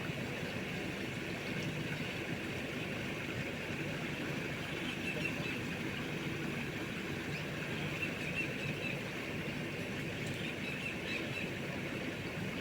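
A small boat motor running steadily over rushing river water, with faint high chirps of wildlife in the background.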